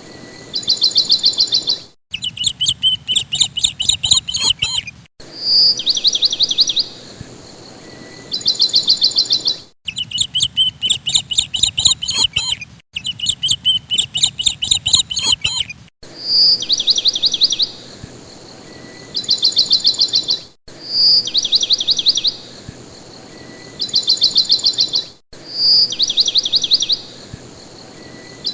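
Caged lovebirds chirping: short bursts of rapid, high chirps that repeat every few seconds, with a few stretches of denser, busier chattering. The sound breaks off abruptly several times, as if spliced together.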